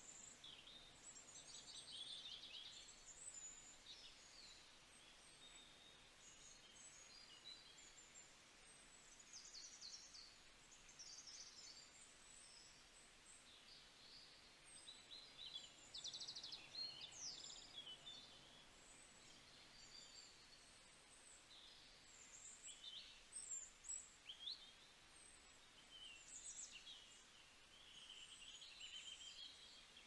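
Faint outdoor birdsong: many short, high chirps and whistles from small songbirds, scattered unevenly and a little louder around the middle of the stretch.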